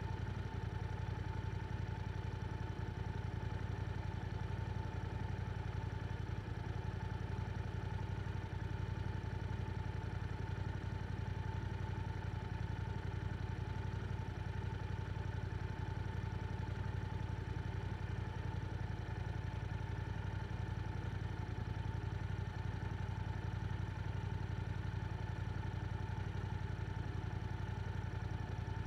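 Yamaha R7's parallel-twin engine running steadily through an aftermarket Akrapovic exhaust, holding an even speed with no revving.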